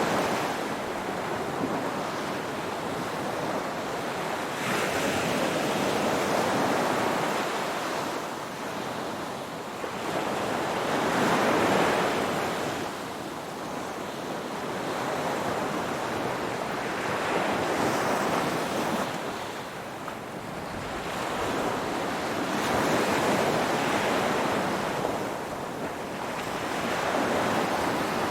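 Ocean surf: waves breaking and washing in slow, even swells, about one every five to six seconds.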